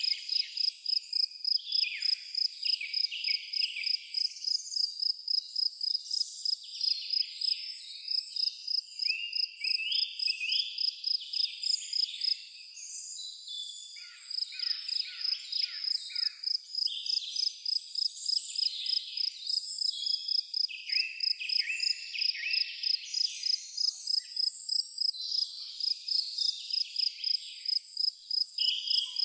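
An insect, cricket-like, chirping in a steady high-pitched pulse about three times a second, falling silent for a couple of seconds about twelve seconds in, then resuming. Birds call and chirp throughout.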